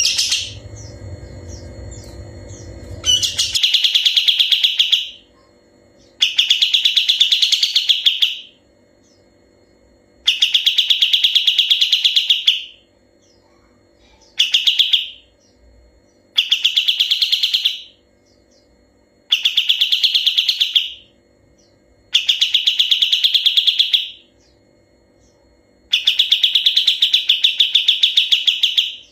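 Kapas tembak singing its fast, rattling trilled song in eight bursts of one to two and a half seconds each, with short pauses between them. A sharp note and some low background rumble come before the first trill, a few seconds in.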